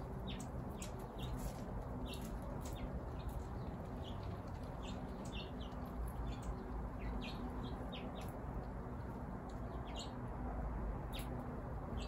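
Small songbirds chirping: many short, separate chirps scattered throughout, over a steady low background rumble.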